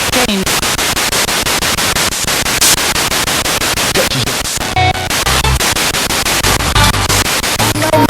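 Spirit box radio sweeping through stations: loud static chopped into rapid, even pulses many times a second, with brief snatches of broadcast sound breaking through.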